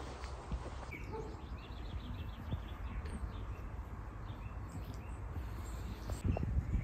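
Outdoor ambience: small birds chirping faintly over a low rumble, with a few soft knocks near the end.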